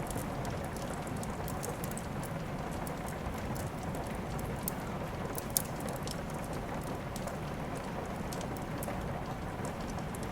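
Steady rain with a wood fire crackling: a constant hiss of rain broken by many small, sharp pops, one of them louder about five and a half seconds in.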